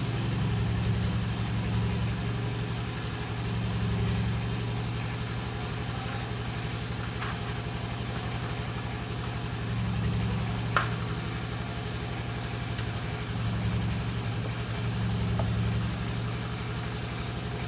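An engine idling steadily, its level rising and falling every few seconds, with one sharp click about 11 seconds in.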